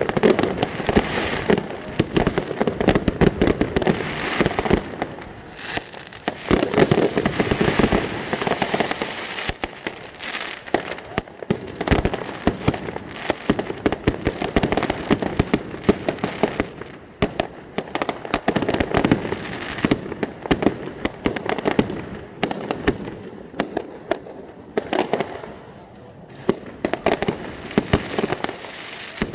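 Fireworks display going off: a dense, continuous barrage of bangs and crackles that swells into louder clusters every few seconds.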